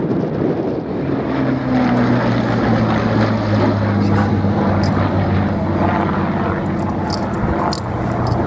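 Propeller-driven Second World War fighter's piston engine droning steadily in flight, with a low, even engine tone from about a second in.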